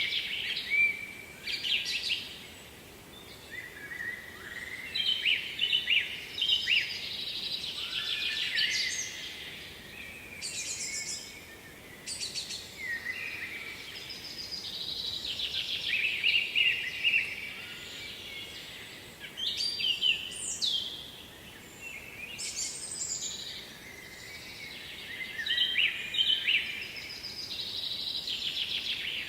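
Songbirds singing, phrase after phrase with short gaps, over a faint steady hiss.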